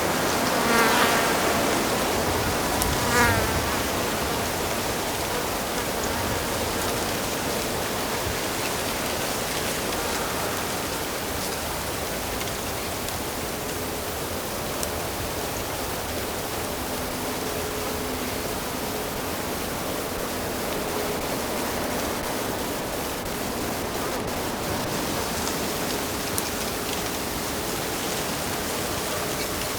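Flowing stream water rushing steadily. Two short, rapid trilled calls stand out about a second in and again about three seconds in.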